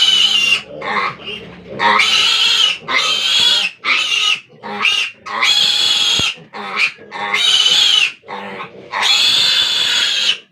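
Piglet squealing loudly in distress while it is held for castration: a string of long, high-pitched screams with short breaks between them.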